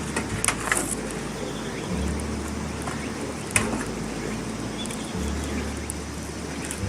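Campfire crackling with scattered sharp pops, over a low rumble that comes and goes about every three seconds.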